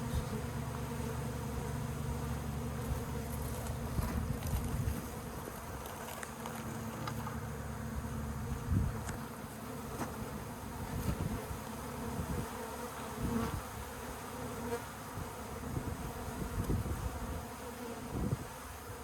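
A honeybee colony buzzing, a steady dense hum of many bees, disturbed by smoke while being moved from a birdhouse nest into a hive box. A few short knocks sound over it.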